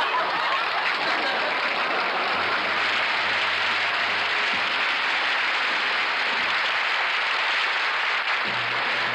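Studio audience applauding steadily. Low band notes sound under it, and the orchestra comes in near the end.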